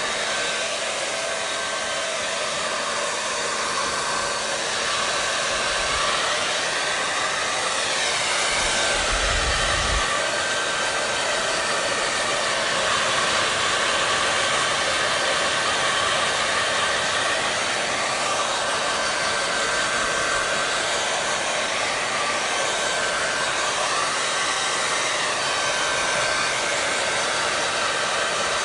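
Hair dryer running steadily: a continuous rush of blown air with a faint motor whine, with a brief low rumble about nine seconds in.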